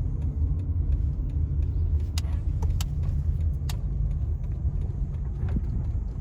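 A car on the move: a steady low rumble, with a few sharp clicks between about two and four seconds in.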